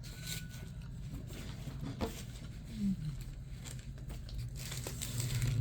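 Close-up chewing and mouth sounds of a person eating a burrito, with small soft clicks and smacks and a brief low hum-like sound about three seconds in.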